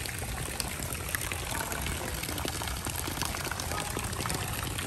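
Rain falling steadily on puddles and wet mud: an even hiss with many small ticks of single drops.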